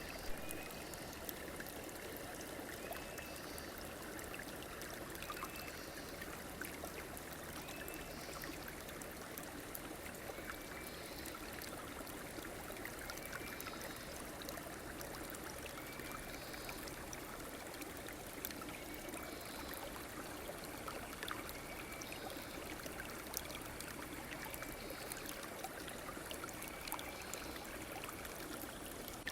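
Steady flow of a stream, with a short high chirp that repeats about every two to three seconds over it.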